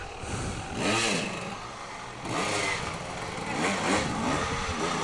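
Dirt bike engine revved in short throttle bursts about four times, its pitch rising and falling with each.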